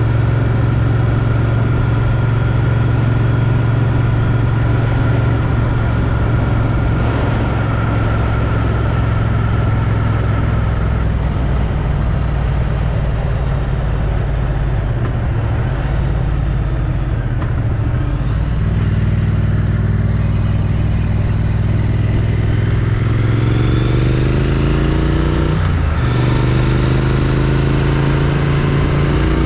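Triumph Street Twin's 900 cc parallel-twin engine through its stock exhaust, heard from the rider's helmet: it holds a steady cruising note, eases off and settles lower in the middle, then picks up again near the end, rising in pitch, breaking briefly for a gear change and rising again.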